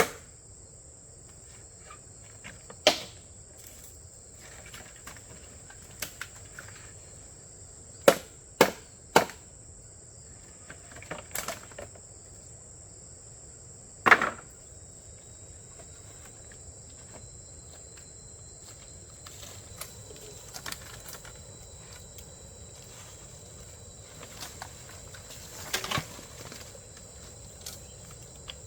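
Steady high-pitched insect chirring, with scattered sharp knocks such as wood being struck or chopped. Three of the knocks come in quick succession about eight seconds in.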